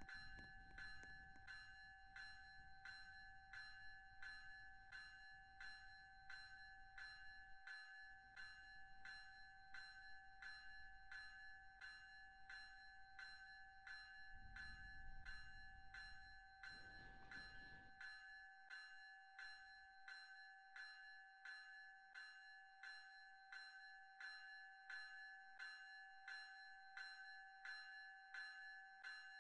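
Railroad crossing bell ringing steadily, about two strokes a second, faint. A low rumble runs under it until a little past halfway.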